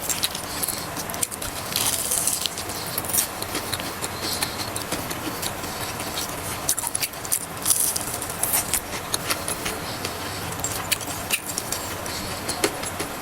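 Close-miked eating sounds: chewing the last bite of fried food, with scattered sharp clicks and a few brief rustles of food packaging.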